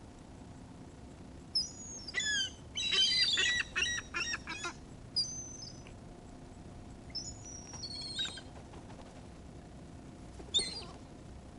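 Seagulls calling: a quick run of harsh, bending cries in the first half, then a few scattered single calls.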